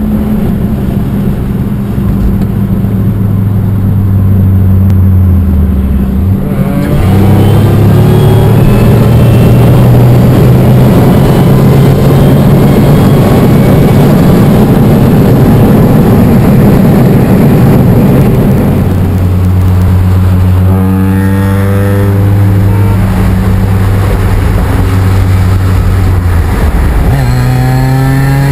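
Supercharged 3.8 L V6 engine of a Pontiac Grand Prix GTP, heard from inside the cabin, running on a 50-shot of nitrous. It runs steadily at first, then about six seconds in it kicks down and pulls hard at wide-open throttle for about twelve seconds. It then eases back to a steady cruise, and near the end it starts accelerating again.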